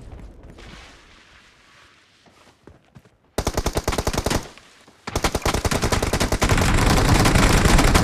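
Automatic gunfire in a shooter video game: a fading tail of earlier shots, then a short rapid burst about three and a half seconds in and a longer sustained burst from about five seconds on.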